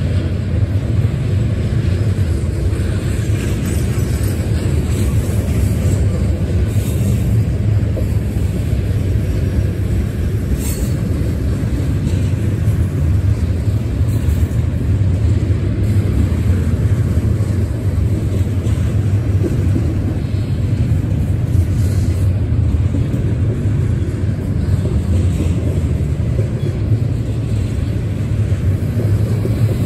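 Double-stack intermodal train's loaded well cars rolling past close by: a steady low rumble of steel wheels on rail, with a few brief higher-pitched sounds now and then.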